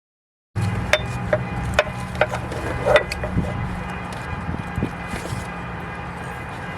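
Sharp clicks and knocks of hand tools against metal during alternator replacement work, several in the first three seconds and a few fainter ones later, over a steady low hum. The sound cuts in suddenly after half a second of dead silence.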